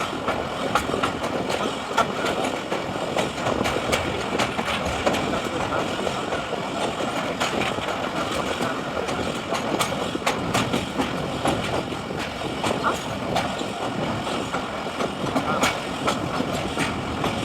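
Khyber Mail passenger train running slowly across a river bridge, heard from aboard: a steady rumble of the carriages with frequent, irregular sharp clicks of the wheels over the rails.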